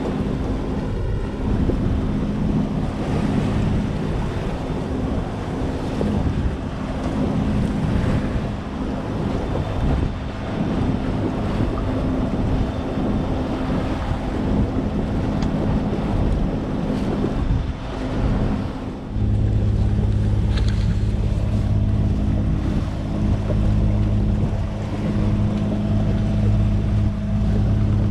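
A sailboat under way in open water: a steady engine hum under wind buffeting the microphone and water washing past the hull. About two-thirds of the way through, a heavier low rumble sets in and stays.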